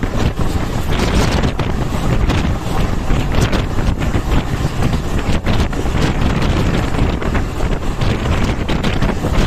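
Indian Railways passenger train running at speed, heard from an open door or window: a steady low rumble of the wheels on the track under heavy wind buffeting on the microphone.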